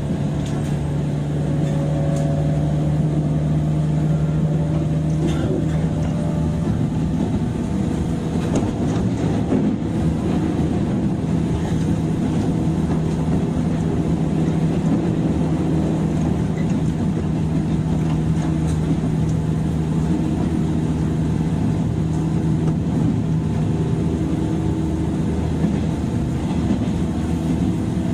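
Inside a 103 series electric commuter train's motor car while it runs: steady traction motor and gear hum over wheel-on-rail rumble, with a few light clicks from the track.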